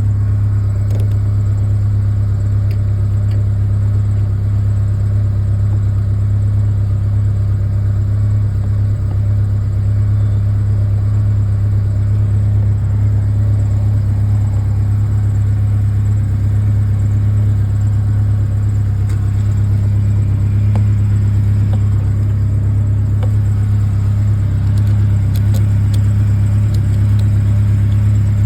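Ford Ranger pickup engine idling, a steady low drone through the exhaust with its new tip.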